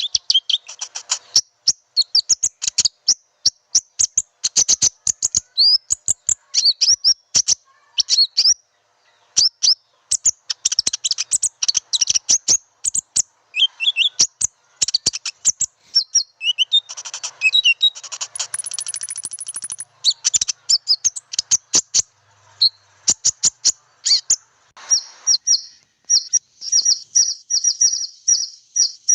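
Konin bird calls played as a trapping lure: a dense stream of sharp, high-pitched chips and short whistled notes, settling near the end into a fast, even run of repeated notes.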